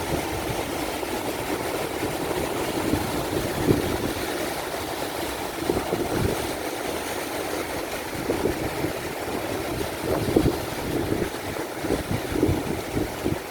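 Ocean waves breaking in a steady rush, with strong wind buffeting the microphone in irregular low gusts.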